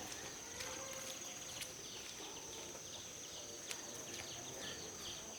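Rural outdoor ambience: insects keep up a steady high-pitched drone, with a bird's quick falling chirps repeating more often in the second half. A few light clicks are heard.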